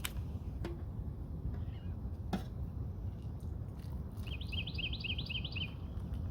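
A bird calling a quick run of about six short rising chirps, starting about four seconds in, over a steady low rumble and a few faint clicks.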